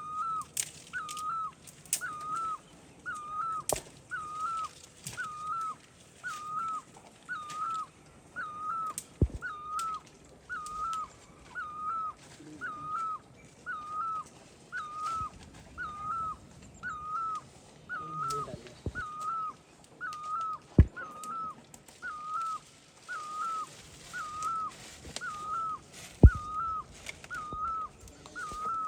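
A bird calling one short whistled note over and over, very regularly, about once a second, with a few scattered sharp clicks.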